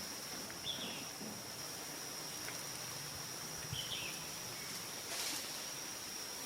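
Natural outdoor ambience: a steady, high-pitched insect drone, with two short bird-like chirps, one about a second in and one near four seconds, and a brief rustle about five seconds in.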